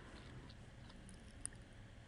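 Near silence: faint room tone, with one soft tick about a second and a half in.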